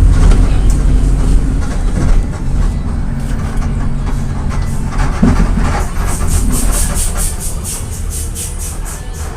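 Volksbus 17.230 EOD city bus on the move, its diesel a low rumble that eases off after about two seconds and keeps fading slowly. Over the last few seconds there is a quick run of light ticks or rattles, about four a second.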